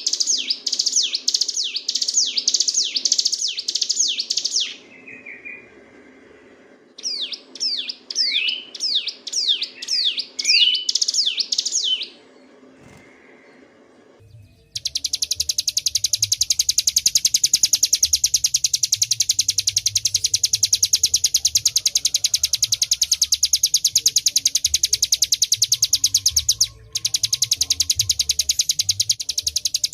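Ciblek gunung singing: two runs of sharp, rapidly repeated down-slurred notes, then from about 15 s in a long, very fast, drill-like trill (the 'ngebren' song) that breaks off briefly near the end.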